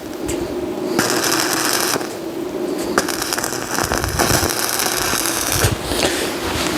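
Arc welding: dense crackling of the welding arc in several short runs, each a second or two long, broken by brief pauses.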